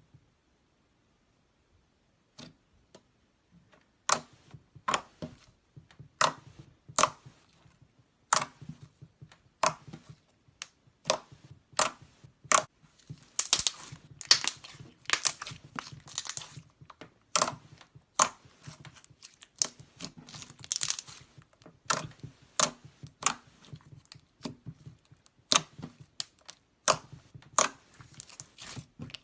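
Slime being squeezed and pressed by hand, giving irregular sharp pops and crackles, some in quick runs. The first few seconds are nearly silent before the handling starts.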